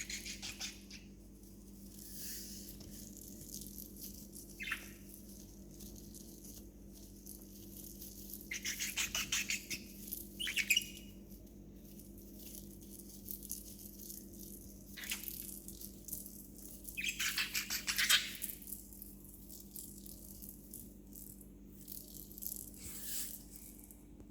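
A pet budgie knocking a small toy ball about: several bursts of quick rattling clicks, with a short chirp from the bird partway through. A steady low hum runs underneath.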